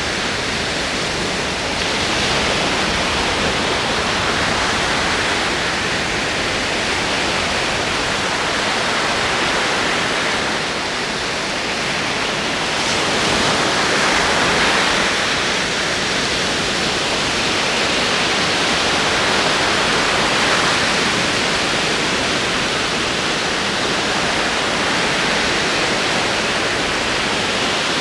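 Ocean waves rolling in as a continuous wash of surf, swelling and easing slowly every few seconds.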